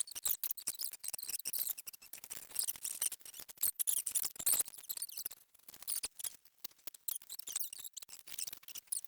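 Dense, irregular scratching, rubbing and clicking of hands working at a stuck oil filter under the truck, trying to twist it off by hand.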